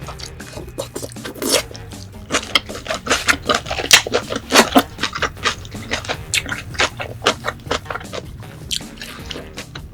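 Eating sounds: many irregular sharp clicks and scrapes of chewing and of utensils on dishes, over background music.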